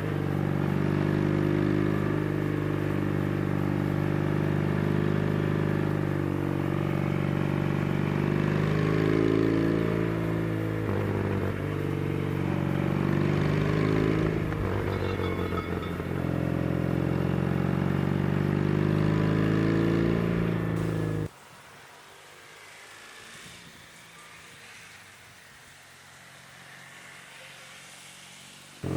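Yamaha TX750's parallel-twin four-stroke engine pulling under load on a motorcycle ride, its pitch dipping and climbing again twice. About seven seconds before the end the engine sound cuts off suddenly, leaving only a faint hiss.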